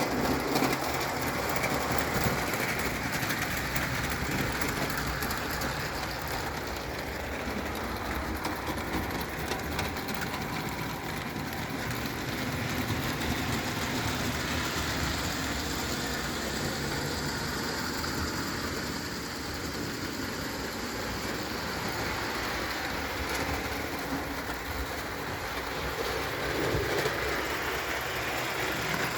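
Bing tinplate 0 gauge live steam toy locomotive running on tinplate track: a steady hiss of steam with fast, continuous clicking from the wheels and motion.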